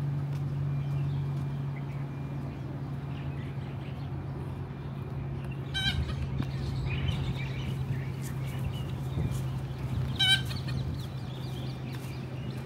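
Two short bird calls about four seconds apart, with fainter chirps between them, over a steady low hum and outdoor street noise.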